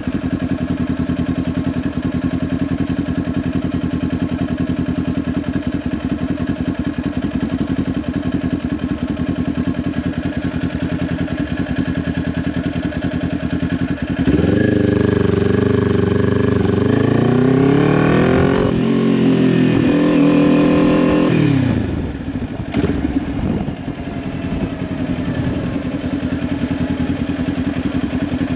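Kawasaki Ninja 400 parallel-twin engine through a Leo Vince LV10 exhaust, running at a steady low note for about half the time. It then gets louder as the revs climb twice in a row, like pulling through a gear change. The revs fall away as the throttle closes and begin climbing again near the end.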